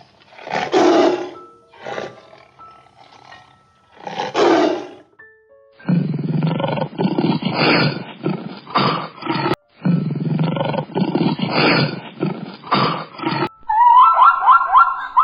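A large animal roaring: two loud rough roars, then a longer stretch of deep, rasping roars. Plucked-string music comes in near the end.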